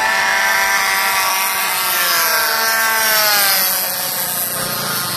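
DLE 20cc single-cylinder two-stroke petrol engines of radio-controlled warbird models racing over the field, a high buzzing engine note whose pitch bends up and down as the planes pass, loudest a little after three seconds in.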